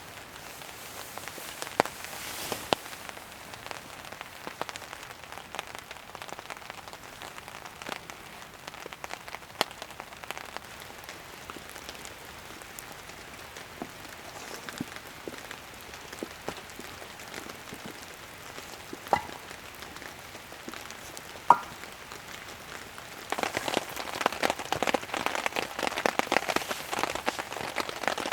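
Rain falling and pattering, with many small drop ticks and two louder ringing drips about two-thirds of the way through. Near the end the rain gets denser and louder.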